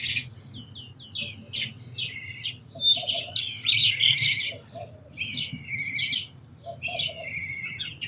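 House sparrows chirping: a steady run of short, repeated chirps, several a second.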